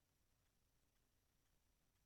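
Near silence: faint electrical hiss and low hum.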